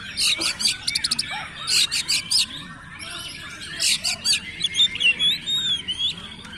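Oriental magpie-robin (kacer) singing fast and busily: quick runs of sharp, repeated high notes, then whistled rising and falling notes near the end.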